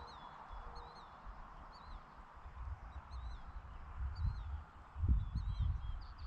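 Small birds chirping over and over in the background, a rural evening ambience with a steady hiss beneath. Irregular low rumbling thumps grow louder in the second half.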